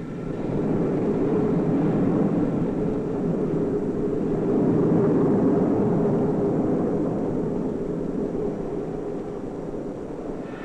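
Concorde 002's Olympus turbojet engines running as the aircraft lands, a dense rumbling jet noise that swells in the first second, holds, then slowly eases toward the end.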